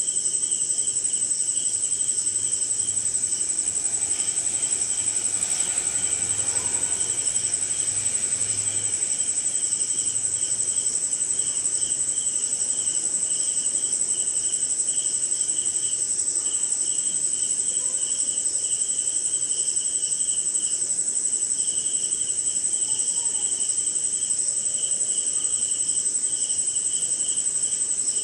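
Night chorus of crickets and other insects: one continuous high-pitched trill with a lower, rapidly pulsing chirp over it, steady throughout.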